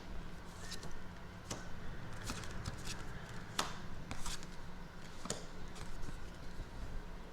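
A deck of tarot cards being shuffled and handled: a scattering of short, sharp card snaps and taps at irregular intervals, with a low steady hum beneath.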